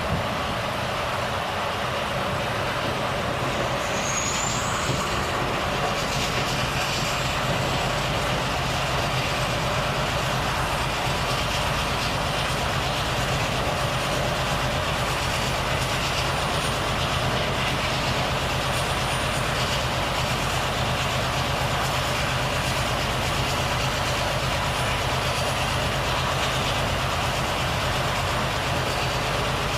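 Volvo FH truck driving along, its diesel engine running steadily under a continuous wash of road and wind noise. A brief high rising chirp comes about four seconds in.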